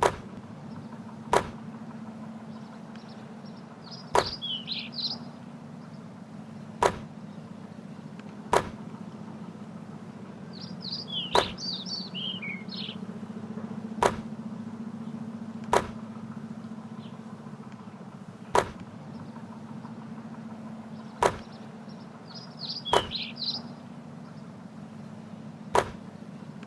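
A basketball making sharp, short hits, about a dozen of them, one every two seconds or so. Birds chirp briefly three times, over a steady low hum.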